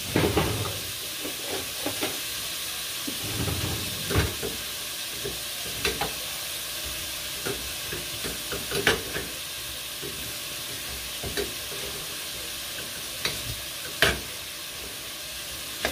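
Shrimp and garlic frying in oil in a pan, a steady sizzle, with scattered clinks and scrapes of a metal utensil stirring noodles in a small metal saucepan; the loudest knocks come about 4, 6, 9 and 14 seconds in.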